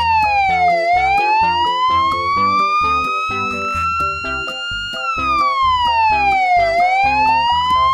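Fire engine siren wailing: the tone slides down quickly, then climbs slowly back up, in two slow cycles. It plays over background music with a steady beat.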